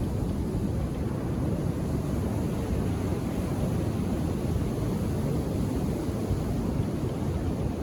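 Ocean surf on a beach, a steady low rumble of waves with no single break standing out.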